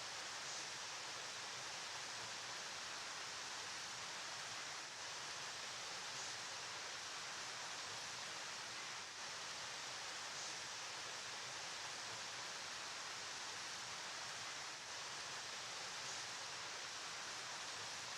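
Flowing river water, a steady, even rushing hiss.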